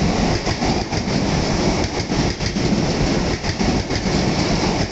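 Sotetsu 20000 series electric train running past the platform as it pulls out of the station: a dense, steady rumble of wheels on rails with many short clicks through it.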